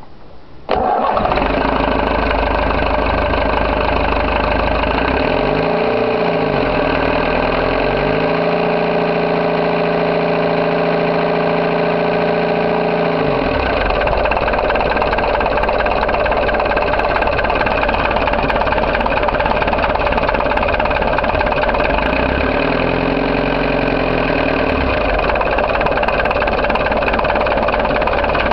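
Fishing boat's engine running loud and steady; it comes in abruptly about a second in. Its tone wavers and shifts twice along the way.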